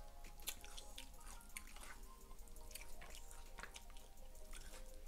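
Faint wet mouth sounds of someone chewing a forkful of a soft burrito bowl (rice, queso, sour cream): scattered small moist clicks and smacks. Quiet background music with held notes.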